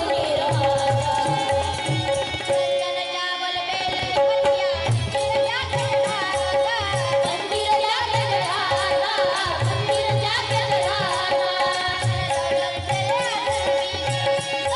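Devotional bhajan music: a male singer's melody over a held steady drone note, with a hand drum keeping a steady beat and a khanjari frame tambourine. The drum drops out briefly about three seconds in, then comes back.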